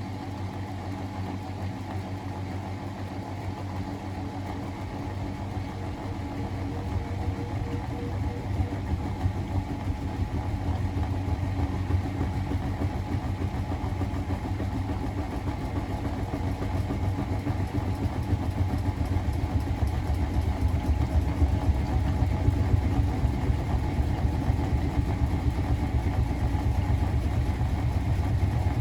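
Miele Novotronic W921 washing machine running with a steady low hum that grows gradually louder over the stretch.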